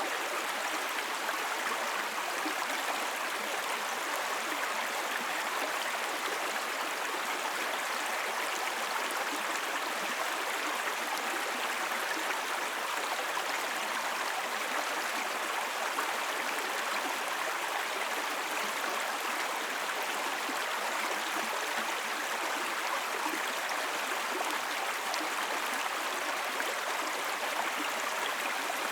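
Small babbling brook: water running and gurgling over stones in a steady, unbroken wash.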